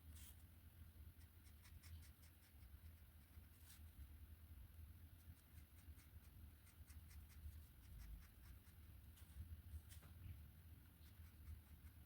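Faint, irregular scratching and tapping of a drawing tool on paper, over a steady low hum.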